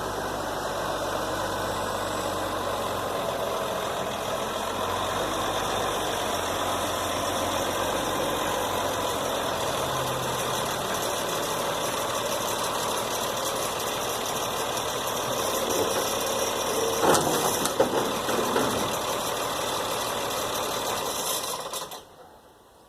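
A vehicle engine running steadily, with two sharp clanks about seventeen seconds in; it shuts off shortly before the end.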